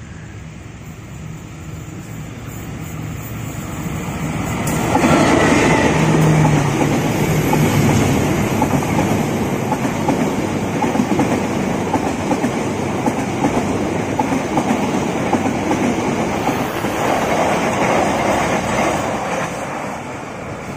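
Argo Dwipangga passenger train passing at speed. Its approach grows louder over the first few seconds and the locomotive goes by about five seconds in. The coaches' wheels then rattle and click over the rail for about fifteen seconds, easing off near the end.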